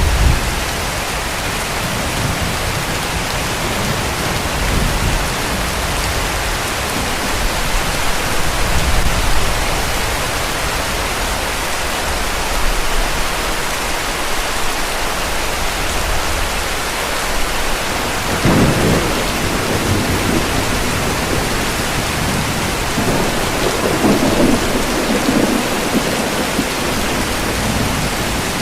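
Steady heavy rain with rolls of distant thunder rumbling underneath, the strongest about two-thirds of the way through and again a few seconds later.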